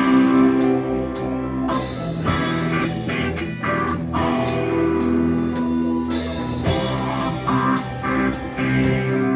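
Live rock band playing an instrumental passage: electric guitar with sustained notes over a drum kit keeping a steady beat with cymbal hits.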